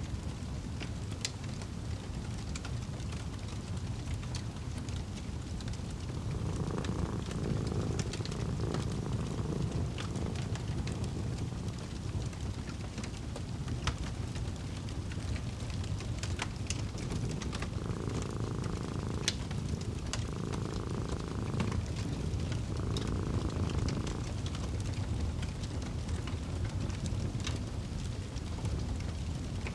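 Fireplace crackling, with scattered sharp pops over a low steady rumble. A cat purrs in spells: from about seven seconds in, and again for several seconds from about eighteen seconds.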